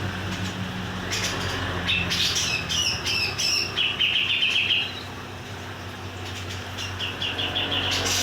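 Grey-cheeked bulbul (cucak jenggot) singing in lively bursts of short chirps, with a fast run of repeated notes about four seconds in and another near the end. A low steady hum runs underneath.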